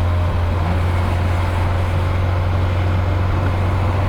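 Nissan 240SX engine and exhaust droning steadily from inside the cabin while driving, at an even pitch with no revving; the exhaust has a hole blown in it.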